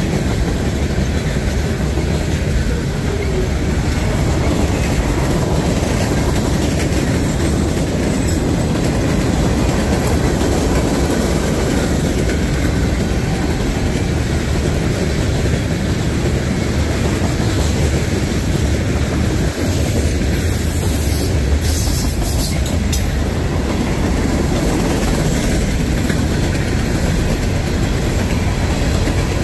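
Freight train rolling past close by, its cars making a steady loud rumble and clatter of wheels on the rails. A brief high-pitched hiss comes about two-thirds of the way through.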